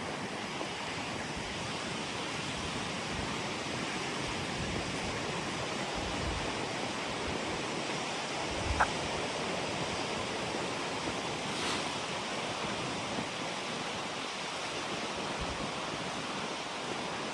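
Waterfall: a steady, continuous rush of falling water, with low wind buffeting on the microphone and a single short tap about nine seconds in.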